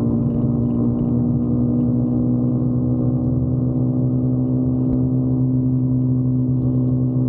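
Motorcycle engine running at a steady cruise, an even drone that creeps slightly up in pitch.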